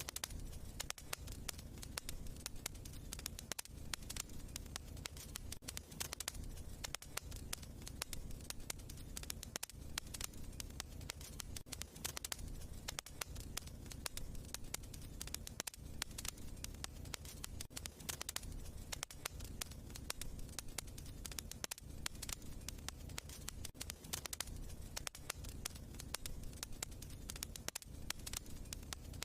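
Wood logs burning in a fireplace, crackling and popping continuously over a low steady rumble of the flames.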